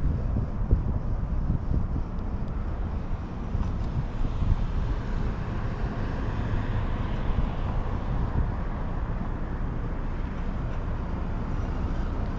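Wind buffeting the microphone outdoors: a steady, fluttering low rumble with a faint hiss above it.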